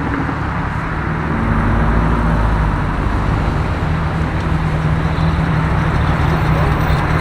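Car engine running close by over general traffic noise, growing louder about a second and a half in and then holding steady.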